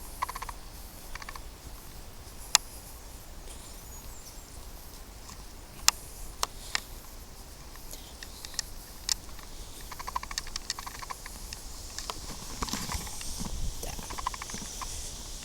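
Footsteps on a woodland path over leaf litter and twigs, with a few sharp snaps spread out, then denser crunching and rustling in the second half.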